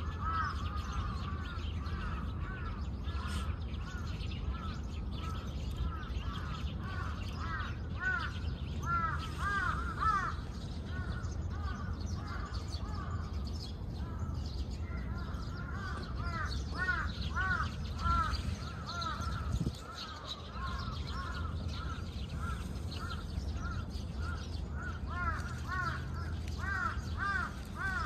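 Birds calling in the background: short, arched calls given in quick runs, over a steady low outdoor rumble.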